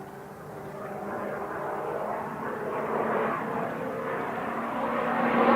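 Supermarine Spitfire's piston engine droning as the fighter approaches, growing steadily louder.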